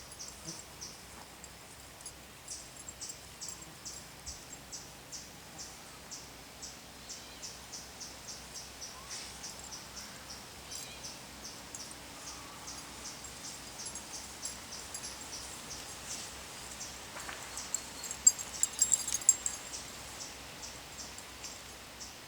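Crickets chirping in a steady rhythm, about two to three chirps a second, with a brief louder flurry of high chirping about three-quarters of the way through.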